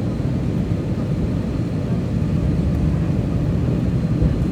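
Airplane noise: a steady low rumble that holds an even level throughout.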